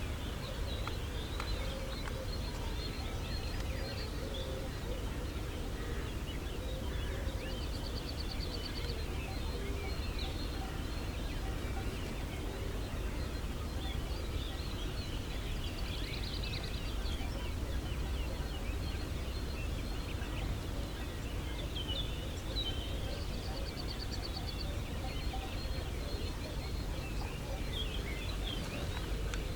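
Outdoor birdsong: small birds chirping on and off over a steady low wind rumble on the microphone, with three short, fast high trills about eight seconds apart.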